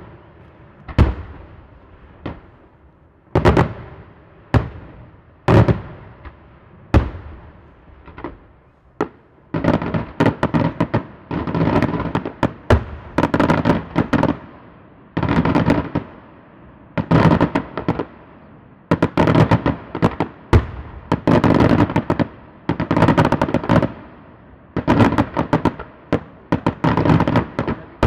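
Daytime aerial fireworks shells exploding in the air. For about the first nine seconds single sharp bangs come roughly once a second. After that come dense rattling volleys of many small reports in quick succession.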